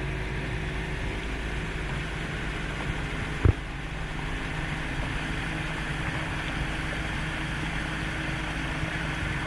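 Motorboat running under way: steady outboard engine hum with wind and water rushing past, and one sharp thump about three and a half seconds in.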